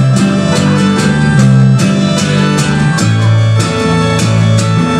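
Guitar strummed in a steady rhythm, about two or three strums a second, through an instrumental passage of a live song, with the chord changing about three seconds in.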